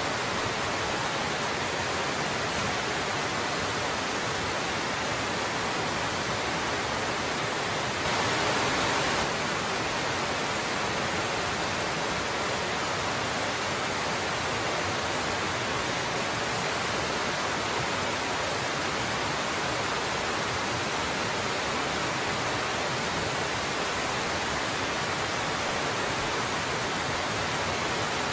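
Waterfall running steadily: an even, dense hiss of falling water, swelling briefly about eight seconds in.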